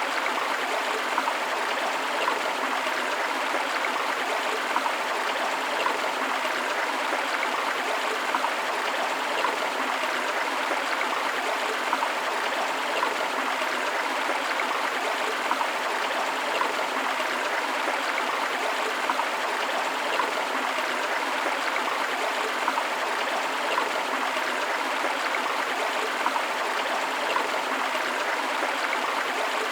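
River and waterfall water flowing as a steady rush, with small brief surges about once a second.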